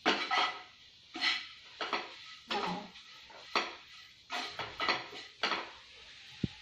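Ladle stirring soya chunks in a wok: a series of about nine short scrapes and clanks against the pan at uneven intervals.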